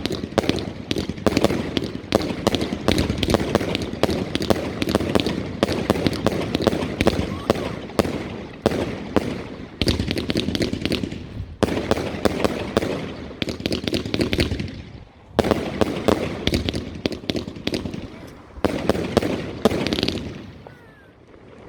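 Fireworks bursting in rapid, dense succession: a continuous barrage of sharp bangs and crackling. It eases briefly about fifteen seconds in and fades away near the end.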